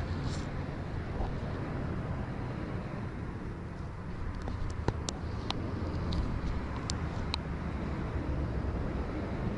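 Steady road traffic noise with a low rumble, and a few light clicks in the middle.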